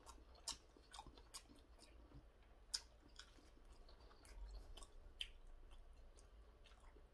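Faint chewing of a mouthful of kimchi dumpling, with scattered soft clicks from the mouth.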